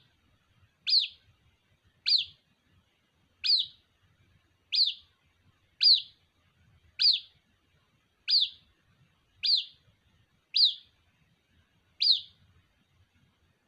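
White-breasted waterhen (ruak-ruak) chick calling for its mother. A short, sharp, falling peep repeats evenly about every second and a quarter, ten times.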